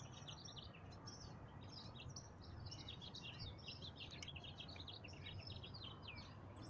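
Faint birdsong: a continuous, rapid run of varied chirps and trills, over a steady low background hum.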